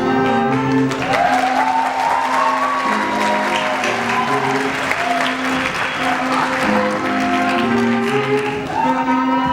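An orchestra holds sustained chords while an audience applauds and cheers over it. The applause swells in about a second in and fades near the end.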